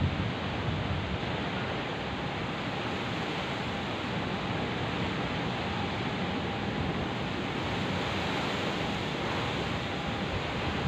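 Steady rain, an even hiss without strikes or changes, between thunder rolls.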